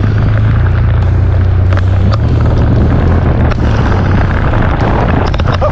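Adventure motorcycle engine running steadily with a constant low hum, wind rushing over the microphone and a few short knocks.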